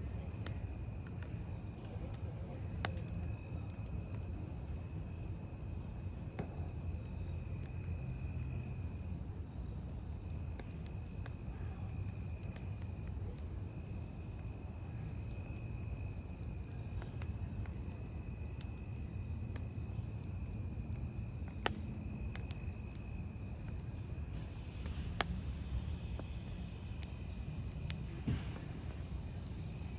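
Crickets chirping in a steady high trill, with a second, fainter trill coming and going, over the low steady sound of a wood campfire burning. A few sharp crackles from the fire stand out in the second half.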